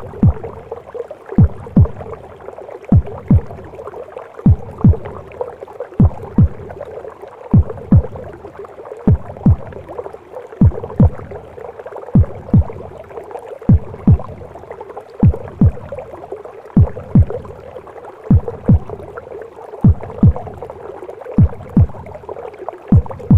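Heartbeat recording mixed with womb sounds: a slow double thump, lub-dub, repeating evenly about once every second and a half, over a steady muffled whooshing.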